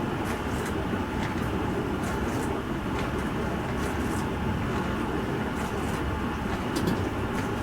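Bosch Serie 4 SMS46MW05G dishwasher running mid-cycle: a steady churning noise with a few faint light ticks on top.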